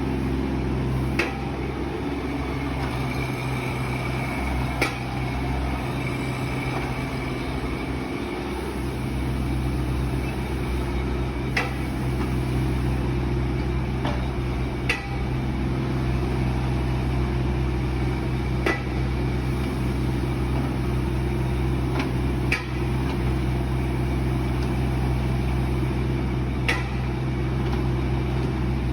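A machine running steadily with a low, even drone, and a sharp knock about every three to four seconds.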